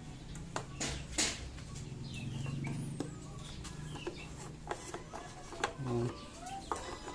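Faint bird calls over a low steady hum, with scattered sharp clicks and knocks.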